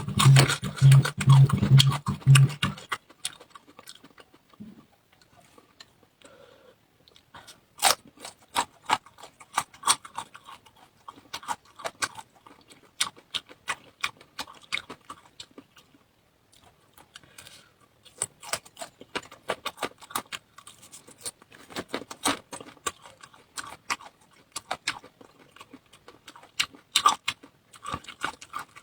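Close-miked eating sounds: irregular wet clicks and crunches of chewing. Before them, a short stretch of music with a pulsing low note ends about three seconds in.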